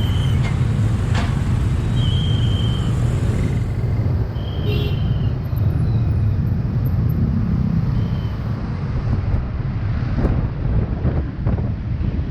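Steady low rumble of wind buffeting the microphone and road noise while riding a motorcycle, with a few short high beeps about two and four and a half seconds in.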